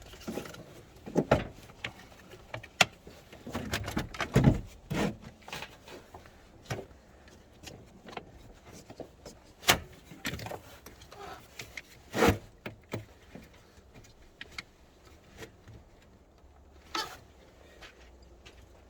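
Irregular knocks, clicks and light clatter, with no engine running. The louder knocks come around four to five seconds in and again about twelve seconds in.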